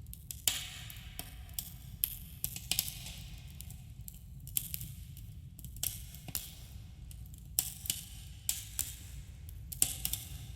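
Wood campfire crackling, with irregular sharp pops about every second over a steady low rumble, and a slight echo from the enclosing cave.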